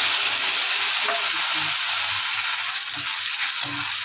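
Wet spice paste of garlic, ginger, tomato and chilli sizzling hard as it meets hot oil and fried potatoes in a kadai, while a metal spoon stirs it through. The sizzle is loudest at first and eases a little in the second half.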